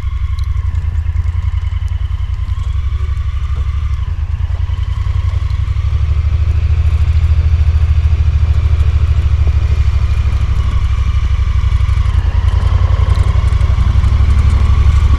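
A farm vehicle's engine running steadily with a low, even pulse, getting a little louder about six seconds in.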